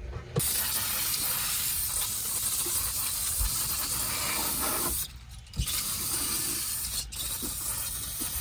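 Aerosol can of brake parts cleaner spraying in long hisses: one of about five seconds, a short pause, then spraying again with a brief break about seven seconds in.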